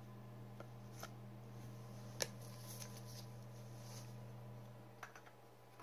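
Trading cards being handled and shuffled through, with a few faint clicks and one sharper snap about two seconds in, over a steady low hum.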